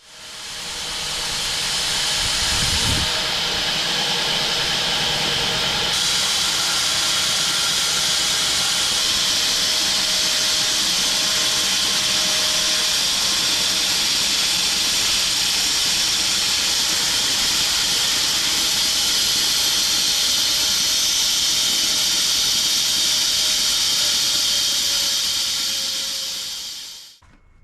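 Home-built bandsaw sawmill running steadily, a loud even hiss over a faint drone, typical of the blade making the first flattening cut through an elm log. It fades in at the start and stops a little before the end.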